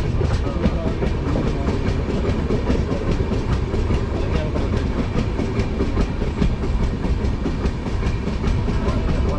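Passenger train running along the track: a steady heavy rumble from the wheels and coach, with rapid clicking as the wheels pass over rail joints.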